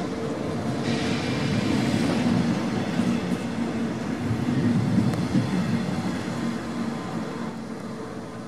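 Double-deck regional train pulling out, its coaches rolling past with a steady rumble that fades as the train leaves. A short hiss comes about a second in.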